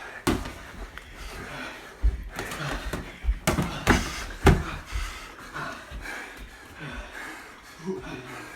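Punches landing in a sparring fight: a run of irregular sharp hits, the hardest a few in a row about halfway through, with heavy panting between them.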